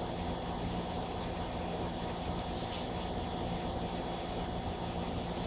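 Steady mechanical hum with a constant low drone and a fainter higher tone, unchanging throughout.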